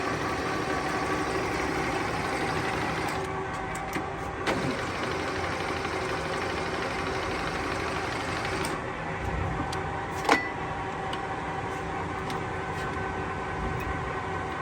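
Kingston HR3000 heavy engine lathe running under power with its carriage on traverse: a steady mechanical hum carrying several constant tones. One sharp knock about ten seconds in.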